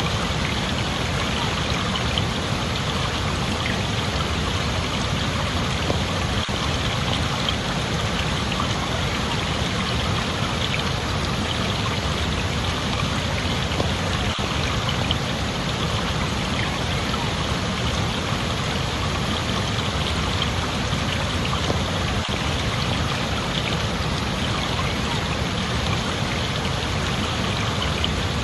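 Steady rushing water, like a flowing stream, with an even, unbroken hiss.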